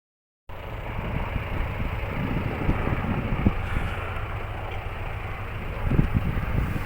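Helicopter running, a steady noise with irregular low thumps, starting about half a second in.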